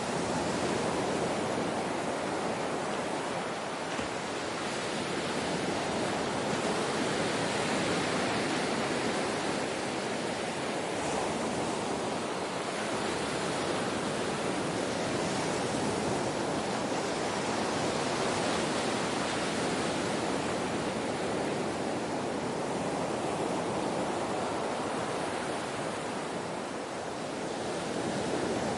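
Ocean surf: a continuous wash of waves, swelling and easing slowly every several seconds.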